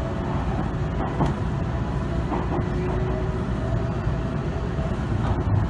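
Running noise of a Tobu Tojo Line train heard from inside the passenger car as it gets under way: a steady low rumble with a few faint tones.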